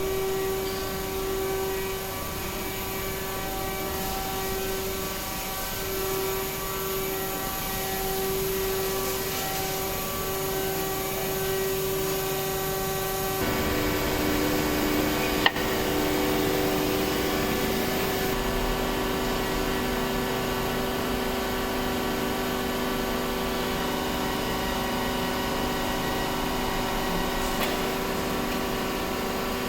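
Machinery running with a steady whine. The pitch of the whine shifts about halfway through, and there is one sharp click shortly after.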